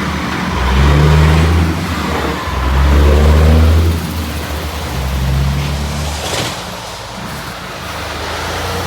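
Road vehicle engine, most likely a truck, accelerating in three loud surges with short dips between them, then easing to a lower, fainter rumble.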